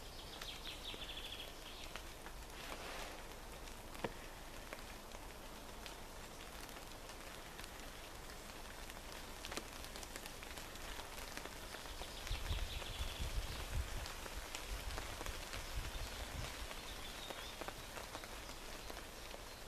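Steady light rain falling, with scattered single drops ticking. A low rumble comes in between about twelve and sixteen seconds in.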